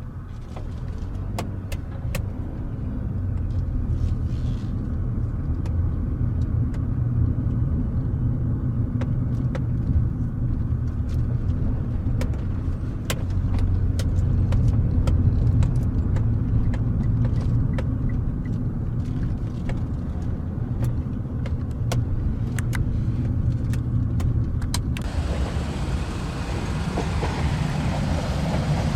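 A car running with a steady low rumble, with scattered faint clicks. About 25 s in, a louder rushing noise comes in over it.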